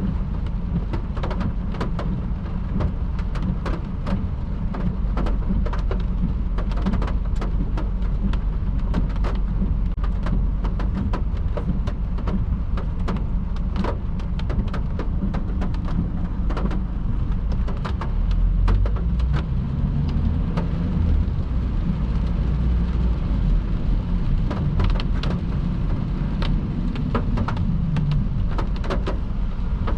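A car driving at speed in heavy rain: a steady low rumble of tyres and engine, with many sharp ticks of raindrops striking the car or the camera.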